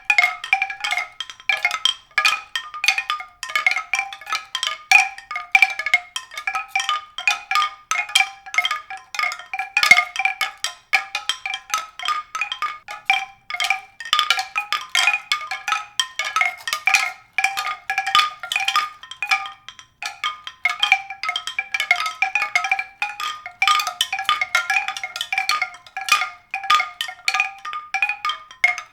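Music played on a mallet percussion instrument: a continuous stream of quick struck, pitched notes in a repeating pattern.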